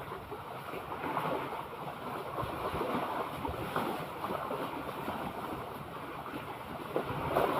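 Sea water washing and lapping, with wind rustling over the microphone and small irregular splashes and crackles.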